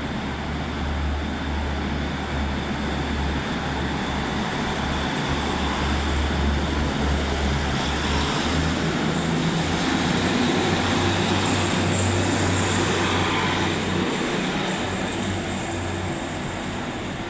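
A Northern two-unit diesel multiple unit, Class 156 and Class 150 coupled, running through the station on its underfloor diesel engines. The engine note shifts in pitch twice, and the sound grows louder toward a peak about twelve seconds in before easing off.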